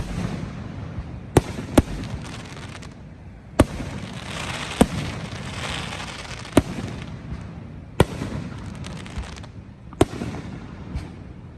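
Aerial fireworks bursting: a string of sharp bangs every one to two seconds, with a denser crackling stretch around the middle.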